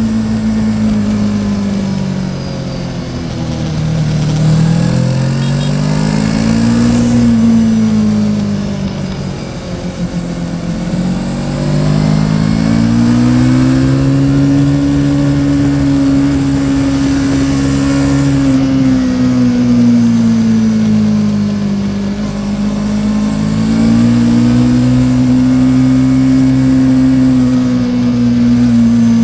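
Yamaha Tracer 700's parallel-twin engine running under way, its pitch falling and rising several times as engine speed changes, with long steady stretches in between.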